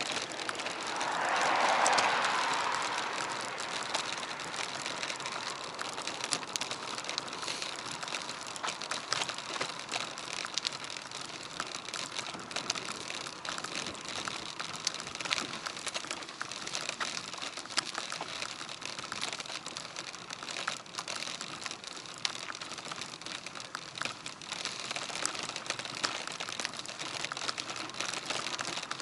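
Bicycle ride heard through a bike-mounted action camera: dense, irregular clicking and rattling over steady road and wind noise, with a brief louder whoosh about two seconds in.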